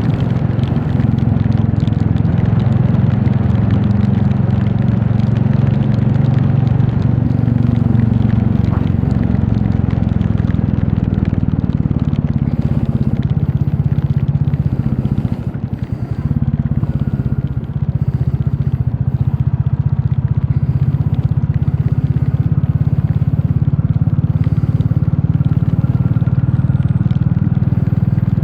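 Royal Enfield Classic 350's single-cylinder engine running steadily while riding, with wind and road noise over it. The sound drops away briefly about halfway through, then picks up again.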